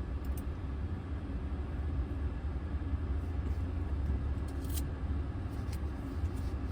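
Steady low rumble of a car idling, heard from inside the cabin, with a few faint ticks.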